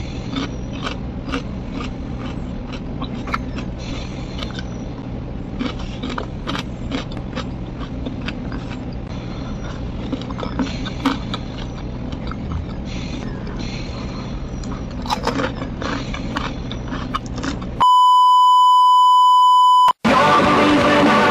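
Close-up mouth sounds of someone chewing food, with small crunches and clicks over a low steady hum. Near the end a loud, steady test-tone beep of the kind laid under colour bars sounds for about two seconds, then music starts.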